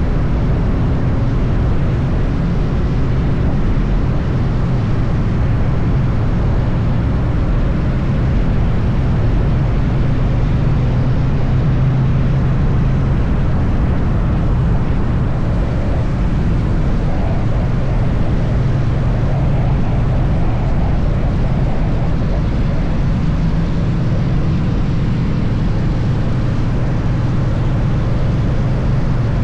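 Triumph Bonneville T100 motorcycle cruising at steady speed: a constant low engine drone under a steady rush of wind and road noise.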